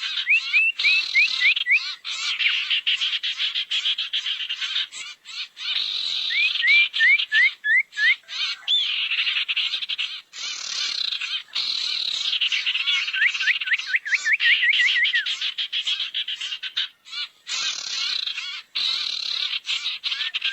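Sirtu bird lure calls: dense, harsh chattering calls. Every few seconds they are broken by a run of five to ten quick rising chirps.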